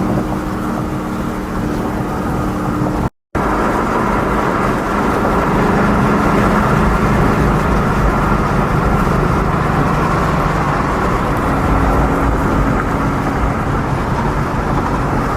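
Straight-piped Ford Mustang exhaust running loud and fairly steady on the street. The sound cuts out briefly about three seconds in.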